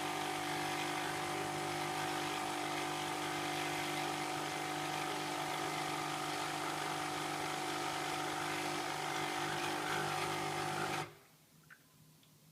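Krups Nespresso Citiz's pump buzzing steadily as it pushes hot water through the empty brew head for a lungo, then stopping abruptly about eleven seconds in, followed by a couple of faint ticks.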